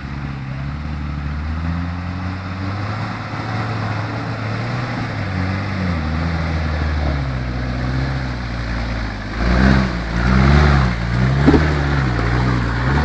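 Off-road 4x4's engine running at low revs as it crawls up a rocky trail, then revving up and down several times and louder in the last few seconds as it works over the rocks.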